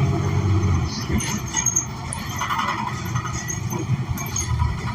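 Inside a 2016 New Flyer XN40 bus: its Cummins Westport ISL G natural-gas engine runs with a steady low drone that falls away about a second in. After that the bus rolls on more quietly, with scattered interior rattles and clicks.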